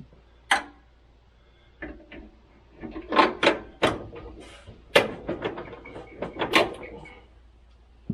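Hand tools and metal parts knocking and clanking against each other, in irregular sharp hits: one about half a second in, then a busy run of clanks from about three to seven seconds, some ringing briefly.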